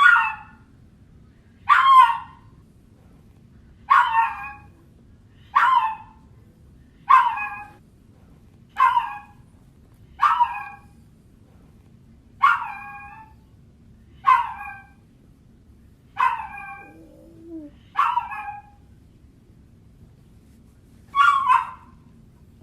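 A dog giving short, pitched crying yelps over and over, about twelve in all, one every one and a half to two seconds, with a longer gap near the end. A steady low hum runs underneath.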